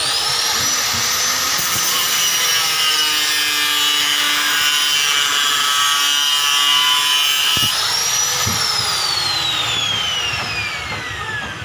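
Home-built coconut grater's electric motor, a reused water-pump motor, switched on and spinning up to a steady high whine. About eight seconds in there is a click and a brief rise, then the whine falls steadily as the motor winds down.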